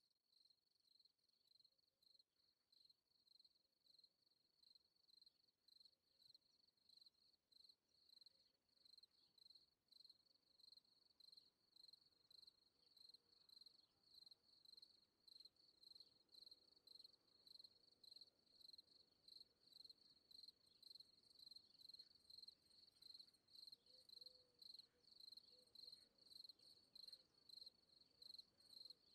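Faint cricket chirping: a high, evenly repeated chirp that slowly grows louder.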